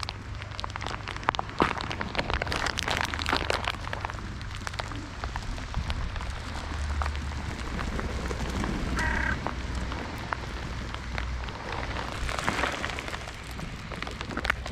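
Rain falling, with many sharp raindrop taps close to the microphone over a steady hiss. A short bird call sounds once about nine seconds in.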